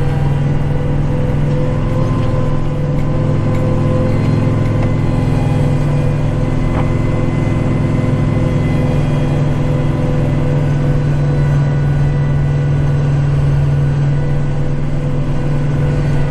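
Kubota tractor's diesel engine running steadily at a constant speed, with a steady higher whine over its low drone.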